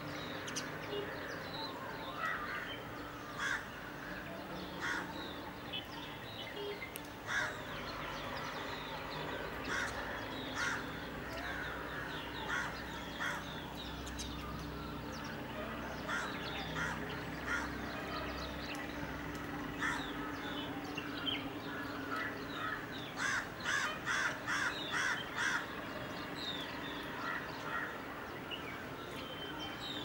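Birds calling: short calls scattered throughout, with a quick run of about six calls about three-quarters of the way through, over a faint steady low hum.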